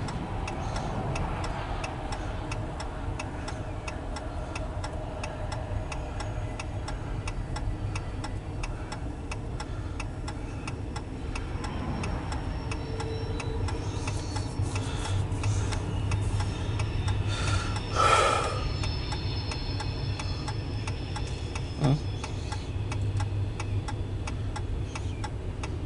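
Car turn-signal indicator ticking steadily inside the cabin, over a low engine and road hum; a short louder rush of noise comes about two-thirds of the way through.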